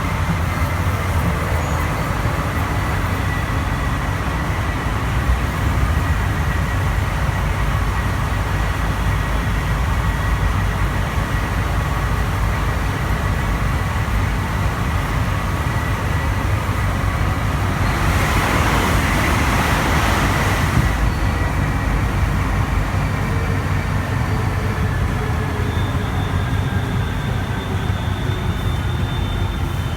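Interior ride noise of a Santiago Metro NS-93 rubber-tyred train under way: a steady rumble with faint motor tones. A burst of hiss lasts about three seconds past the middle. Near the end several tones slide down in pitch as the train slows.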